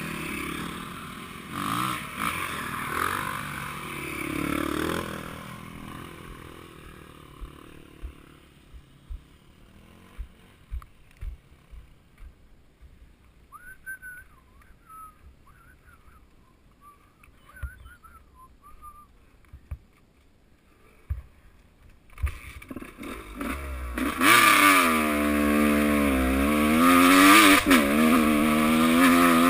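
Motocross bike engines. One fades away over the first few seconds, then there is a lull with scattered knocks. About 23 seconds in, a bike comes close and loud, its revs rising and falling as it is ridden hard.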